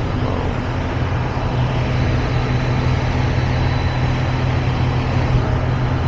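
Semi-truck's diesel engine idling steadily, a low even drone.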